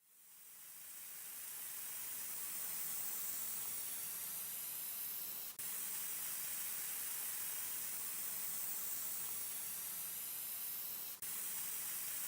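Restored paint spray gun spraying: a steady hiss of air and spray that builds up over the first couple of seconds, broken very briefly twice, about halfway through and near the end.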